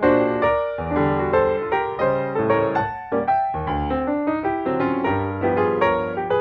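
Background piano music: a melody and chords of quickly struck notes, each fading after it is played.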